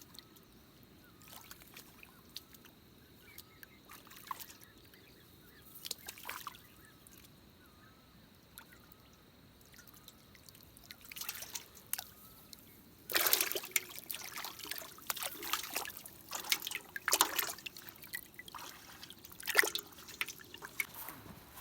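Water trickling and splashing. It is quiet at first with faint small chirps, then from about halfway through there is a run of louder splashes and sloshes.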